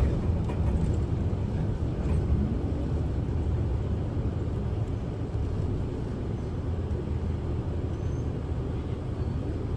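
Steady low rumble of a Kyoto City bus's engine and running gear, heard from inside the passenger cabin.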